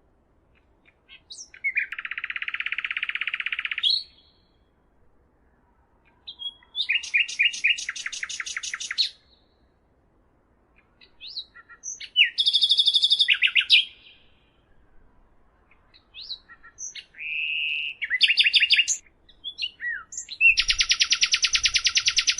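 A songbird singing in repeated phrases: each phrase opens with a few short, high chirps and runs into a fast, buzzy trill lasting about two seconds. Five phrases come roughly every four to five seconds, with short gaps of quiet between them.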